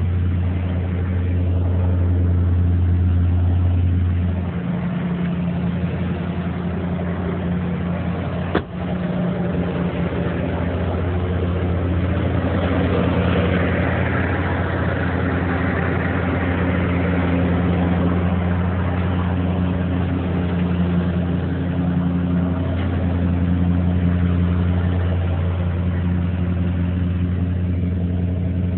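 Classic car's engine running steadily at idle, with a single sharp click about eight and a half seconds in.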